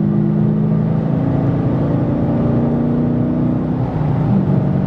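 Dodge Challenger R/T's 5.7-litre HEMI V8 through a Magnaflow catback exhaust, under acceleration, heard from inside the cabin. The engine note climbs, dips briefly about four seconds in, then rises again. It is a little louder on acceleration but not droning.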